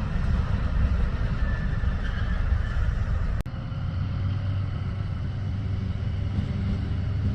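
Railway locomotive running, a steady low rumble and hum with a faint higher whine. The sound changes abruptly about three and a half seconds in, to a steadier hum.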